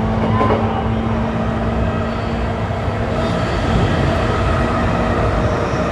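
JR East E235-1000 series electric multiple unit heard from inside the car: steady wheel-on-rail rolling rumble with a motor and inverter hum. The low hum fades out near the end.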